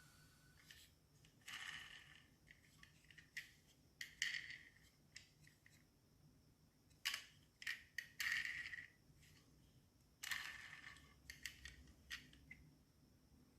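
Small diecast metal toy cars being handled: faint sharp clicks and short scraping rattles as they are picked up, set down and moved on a hard surface, in several separate bursts.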